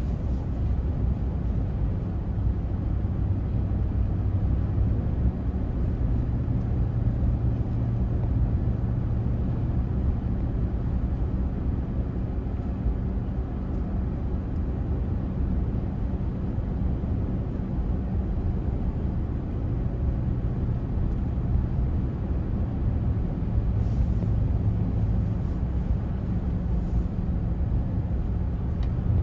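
Steady road and engine noise inside a moving car's cabin: a continuous low rumble with a faint hum that swells and eases at times.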